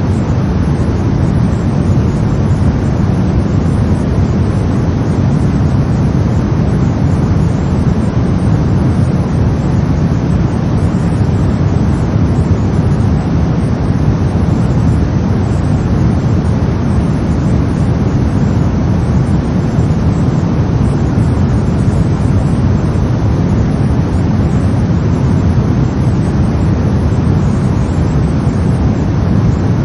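Synthetic brown noise: a steady, deep, rumbling hiss with most of its energy in the low end and no changes.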